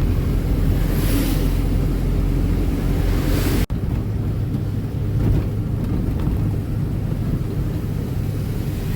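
Ashok Leyland Ecomet 1214 diesel truck on the move: steady engine rumble and road and wind noise, with a hiss that swells now and then. A brief dropout a little under four seconds in.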